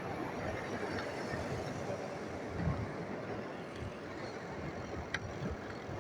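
Steady wind and road noise of a motorcycle ride.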